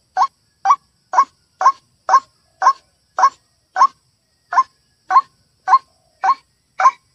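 White-breasted waterhen calling: a steady run of short, harsh croaking notes, about two a second, with one slightly longer gap about halfway through.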